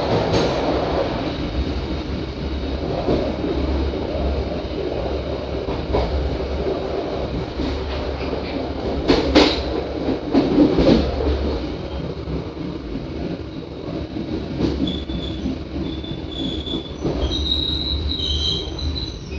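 Passenger train running on the rails with a steady rumble of its wheels, with loud clacks about nine to eleven seconds in as it runs over the station points. From about fifteen seconds in, a high squeal of the wheels sets in as the train slows to stop at the station.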